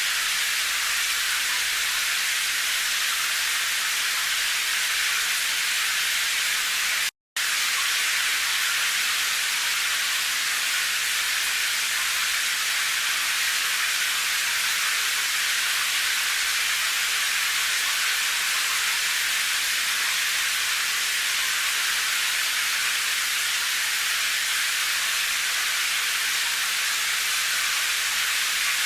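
Steady rain hiss, mostly high-pitched with little low end. It cuts to dead silence for a fraction of a second about seven seconds in.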